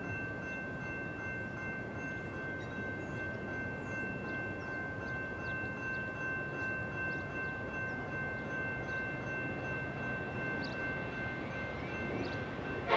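A distant approaching freight train led by a pair of EMD SD70MAC diesel locomotives, its low rumble slowly growing, under several steady high ringing tones and scattered bird chirps. The locomotive horn cuts in loudly at the very end.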